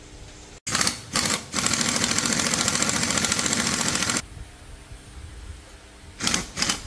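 A metalworking tool on the motorcycle repair running in a loud, rapid rattling buzz: two short bursts about a second in, a run of about three seconds, then two more short bursts near the end.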